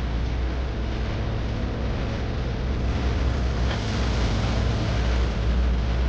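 Steady low rumble and hiss of a vehicle in motion, swelling slightly about halfway through.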